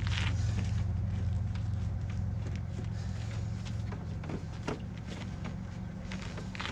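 Scattered clicks, knocks and scrapes of a thick brake cable being fed and maneuvered under a side-by-side's dash, over a steady low hum.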